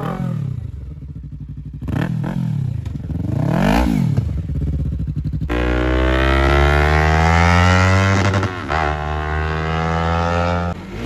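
Motorcycle engine revved in two quick blips, then, about halfway through, it opens up and accelerates hard, its pitch climbing steadily with a brief dip before it eases off near the end.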